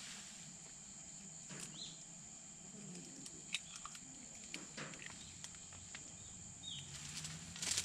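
Faint, steady high-pitched insect chorus, with a few scattered light ticks and a couple of short chirps.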